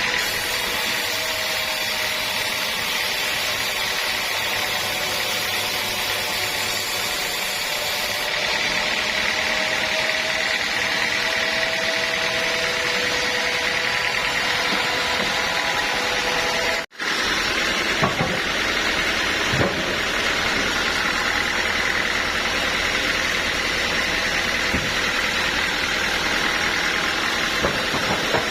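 Sawmill machinery running steadily, a loud mechanical din with a high whine. The sound cuts out for an instant a little past halfway, and a few sharp knocks follow.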